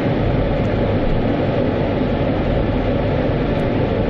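Automatic car wash running: a steady, unbroken rush of machinery and spray.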